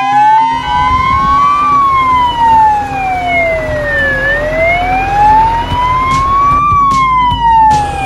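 Fire engine siren in a slow wail, rising and falling about every five seconds, over a low rumble.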